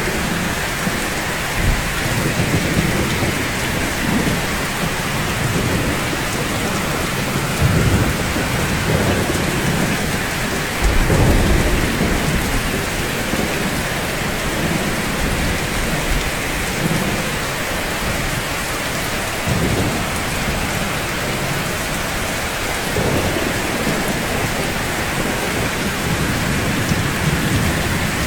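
Steady heavy rain falling on rooftops, a dense even hiss, with a few low rumbles swelling under it, the strongest about eleven seconds in.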